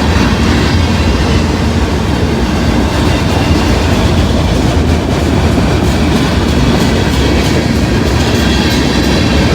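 Long freight train's cars rolling past on the rails: a steady, loud rumble of wheels and cars.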